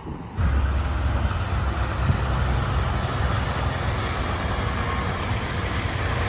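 Street traffic: a steady low rumble of vehicle engines and road noise, starting suddenly about half a second in.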